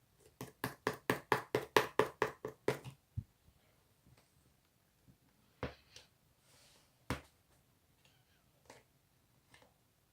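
Hands pressing and mixing slime: a quick run of about a dozen sticky popping clicks, roughly five a second, then two louder single pops and a few faint ones.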